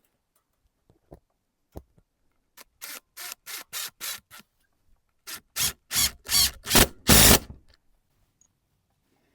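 Two runs of quick rasping strokes from a hand tool working material, about three strokes a second, the second run louder with longer strokes.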